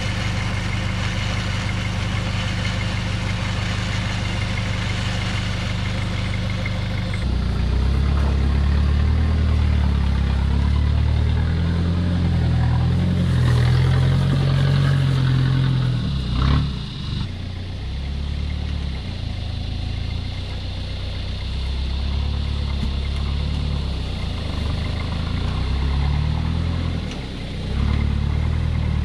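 Modified Toyota Hilux LN106's 3.0 turbo diesel engine idling steadily, then from about seven seconds in running louder, with the revs rising and falling. A single sharp knock comes about sixteen seconds in.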